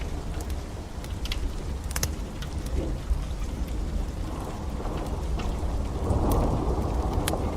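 Steady rain with a deep rumble that swells near the end, and a wood fire in a fireplace giving scattered sharp crackles and pops.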